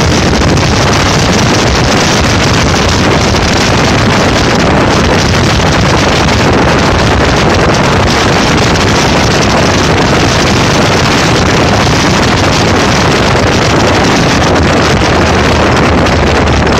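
Super 7 WideBody open sports car under way: its engine runs steadily under loud wind noise on the microphone.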